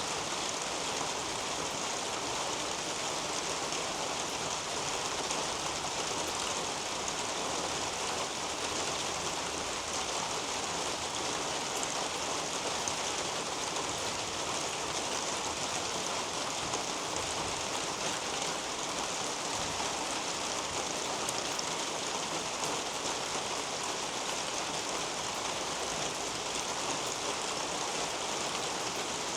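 Steady rain falling on garden foliage: an even, unbroken hiss of rainfall with a few faint drop ticks.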